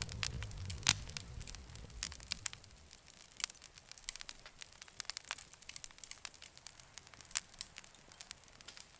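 Campfire crackling, with irregular sharp pops of burning wood. A low rumble under it dies away about two seconds in.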